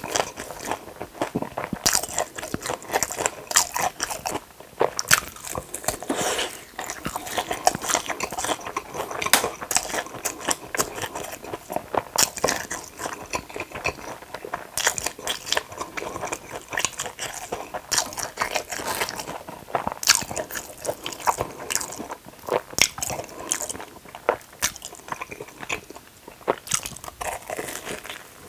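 Close-miked eating: a steady run of crisp, crunchy bites and chewing, with many sharp crackles.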